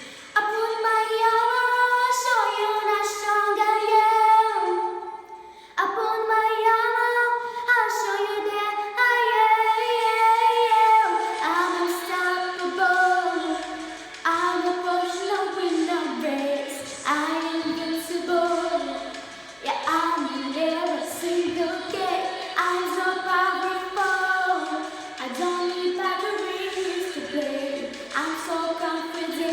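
A young girl singing a pop melody solo, in long held and sliding notes with a brief pause about five seconds in, with little or no accompaniment heard beneath her voice.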